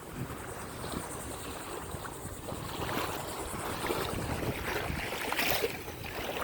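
Wind buffeting the microphone at the waterside, a steady low rumble with two brief louder rushes, about three seconds in and again near five and a half seconds.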